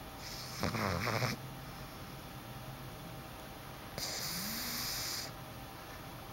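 Boston terrier puppy snoring in its sleep: a rattly, fluttering snore about half a second in, then a longer, airier snore about four seconds in.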